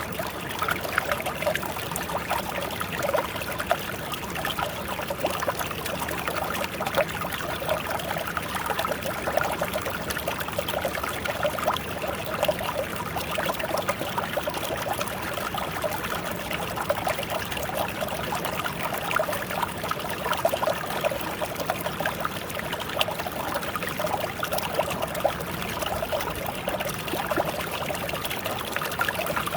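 Mountain stream flowing over rocks: a steady, unbroken rush of water with small splashes and trickles.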